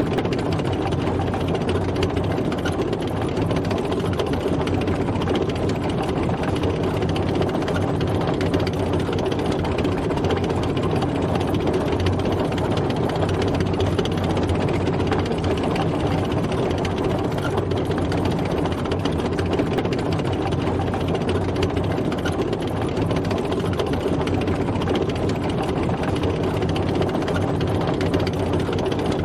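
A tank driving, its engine running at a steady pitch and level.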